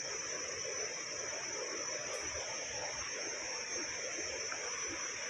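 Steady, high-pitched insect drone over a continuous, even rushing noise.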